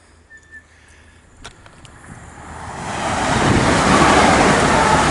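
A train approaching and passing close by. Its rumble and rush build from about two seconds in and are loudest near the end.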